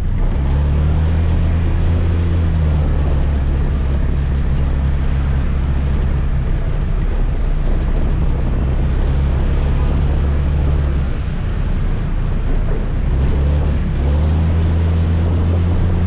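Motor scooter engine running at a steady speed under wind and road noise. The engine note eases off about eleven seconds in and picks up again a couple of seconds later.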